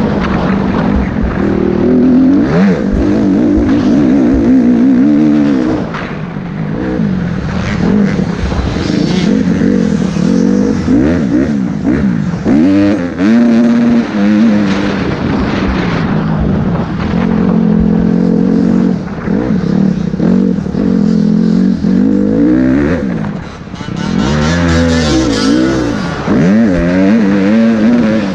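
Motocross bike engines running hard, revving up and falling back again and again. Around halfway through and again near the end, more than one engine can be heard at once.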